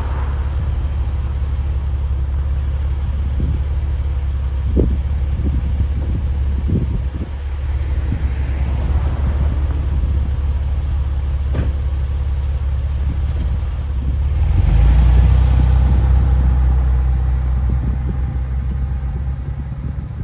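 A 2003 Porsche 911 (996) with its flat-six engine, running steadily as the car drives. The engine note grows louder for a couple of seconds about three-quarters of the way through, then eases off.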